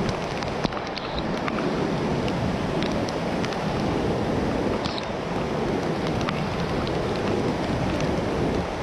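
Rain and wind of a thunderstorm: a steady rushing, with scattered sharp ticks throughout.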